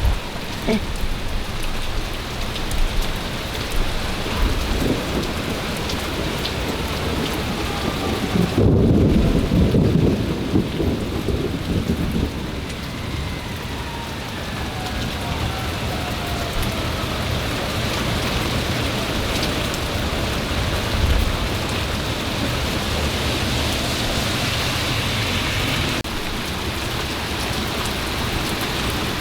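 Rain falling steadily throughout, with a loud rumble of thunder about nine seconds in that lasts a few seconds before fading.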